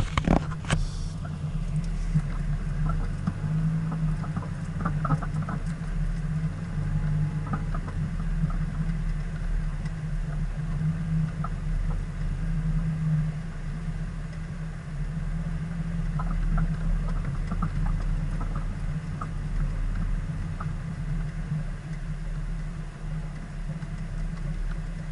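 Vehicle engine running steadily at low speed with a low hum, heard from inside the cab while driving over dirt and sand, with occasional light clicks and rattles.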